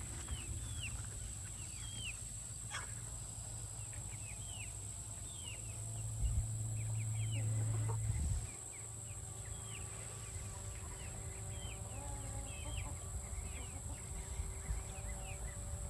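Chickens peeping, with many short, high, falling chirps repeating throughout. A louder low rumble runs from about six to eight seconds in.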